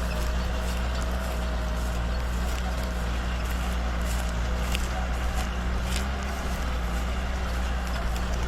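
Diesel tractor engine running steadily under load, pulling a four-disc chopping harrow.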